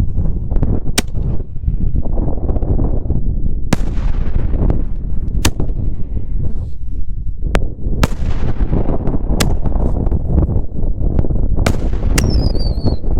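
Aerial firework shells bursting, with sharp loud bangs every one to three seconds, each trailing off in an echo, over a steady low rumble. A falling whistle sounds near the end.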